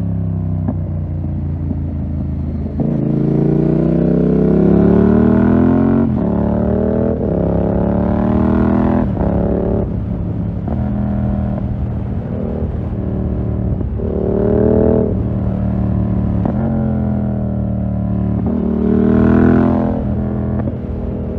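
2020 Yamaha MT-07's parallel-twin engine through a full SC-Project 2-1 exhaust, revving up hard and dropping back again and again as the bike accelerates and eases off. The loudest climbs come a few seconds in and near the end.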